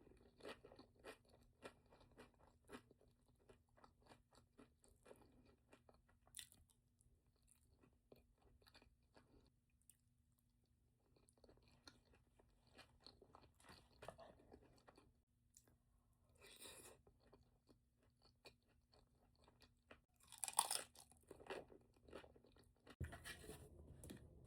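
Quiet close-up chewing and crunching of a person eating a Chipotle bowl: many small mouth clicks and crackles, with a few louder crunchy bites, the loudest about twenty seconds in.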